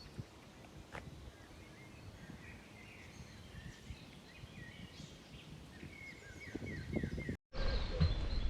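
Small birds chirping and calling over a faint outdoor background rumble. About seven seconds in, the sound cuts out for a moment and returns louder, with a steady low hum and heavier rumble.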